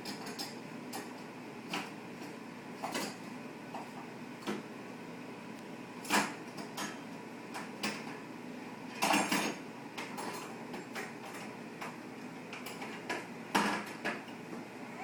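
Dishes and cutlery in an open dishwasher's racks clinking and clattering now and then, about eight separate knocks, as a baby climbs on the dishwasher.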